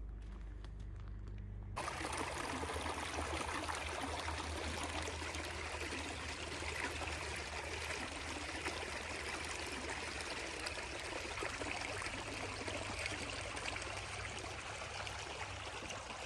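Running water, a steady rushing noise that starts abruptly about two seconds in.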